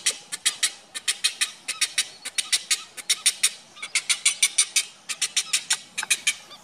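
Bird calls: a rapid chatter of short, high, raspy notes, about seven a second, in runs of about a second with brief pauses.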